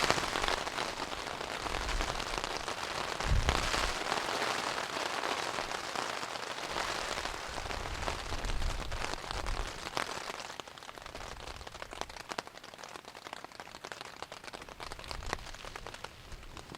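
Rain falling in a storm, an even rush with many separate drops hitting close by, and a few low rumbles of wind or thunder in the first half. The rain eases and grows quieter after about ten seconds.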